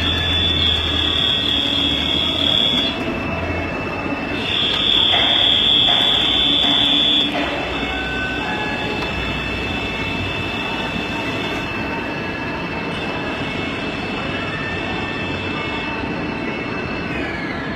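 Haas ST-20SSY CNC lathe machining a part: a steady mechanical whir with a constant high-pitched whine. A louder, higher whine joins for the first three seconds and again from about four and a half to seven seconds in. The steady whine falls away shortly before the end.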